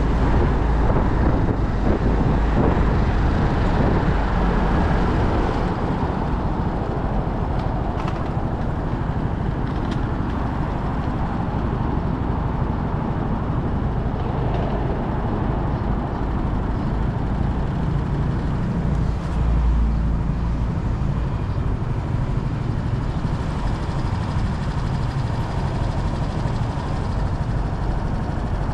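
On-board sound of a motorcycle riding through traffic: wind buffeting the microphone over engine and road noise. It is loudest for the first few seconds, then eases, with a brief swell about two-thirds of the way through.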